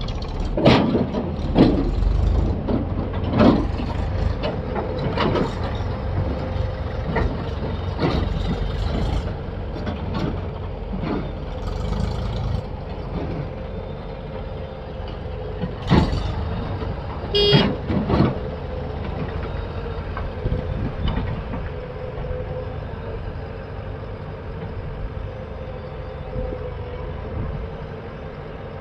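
Heavy diesel machinery running steadily, with repeated sharp knocks and clatter through the first half and one more knock about 16 seconds in. About 17 seconds in, a brief high-pitched tone sounds.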